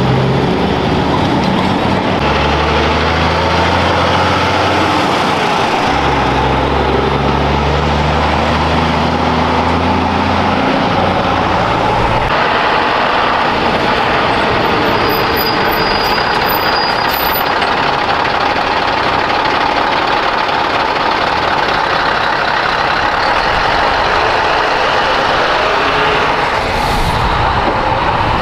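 Heavy trucks' diesel engines running in a loud, steady din. For the first dozen seconds deep engine tones hold and then step to new pitches; after that an even noisy rumble carries on.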